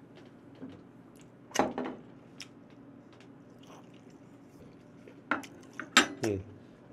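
A man chewing a mouthful of raw beef after downing a glass of somaek (soju and beer), with soft wet mouth sounds. Short, louder sounds come about a second and a half in and again about six seconds in, between a few small clicks.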